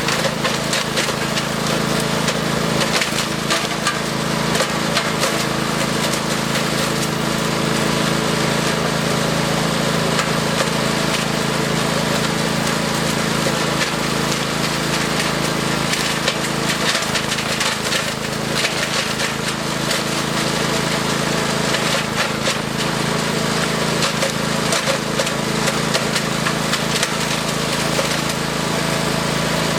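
Wood chipper's engine running steadily under load while branches are fed in, with dense, irregular cracking and snapping of wood being chipped.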